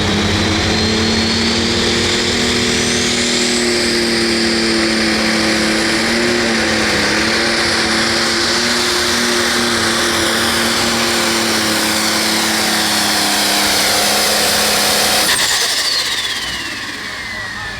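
Pro stock pulling tractor (a John Deere 7520 with a single-turbo diesel) running flat out down the track, its turbo whistle rising over the first few seconds. About fifteen seconds in the engine shuts down and the turbo whine falls away in a long descending whistle.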